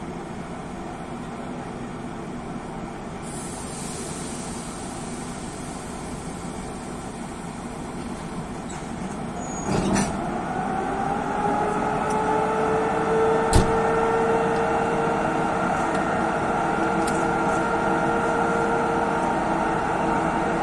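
EP2K electric locomotive pulling away with a passenger train. A hiss of air comes in a few seconds in, and a loud clunk follows about ten seconds in. Then the traction-motor whine sets in, several tones rising slowly in pitch as the train gathers speed.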